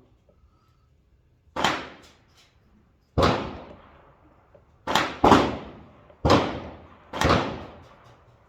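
PSA M4-clone AR-15 rifle in 5.56 firing six single semi-automatic shots at uneven intervals, two of them in quick succession, each shot sharp and echoing away.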